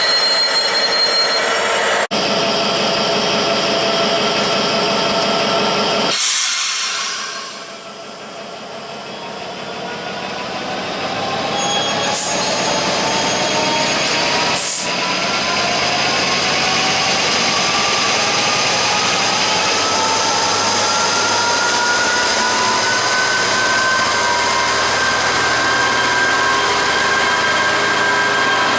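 Train running with steady motor tones, broken by a brief loud hiss about six seconds in. After that its motor whine rises steadily in pitch over many seconds as it gathers speed.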